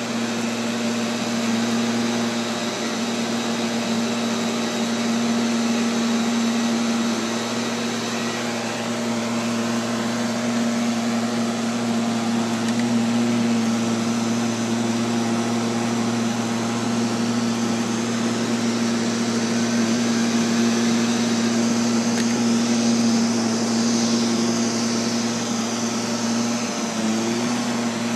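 Neato XV-11 robotic vacuum cleaner running: the steady whirring hum of its motor, with a strong, even low tone under a wide airy rush.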